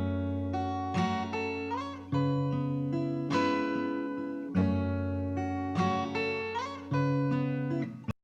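Background music on acoustic guitar: plucked and strummed chords changing about once a second, with a few sliding notes. It cuts off abruptly near the end.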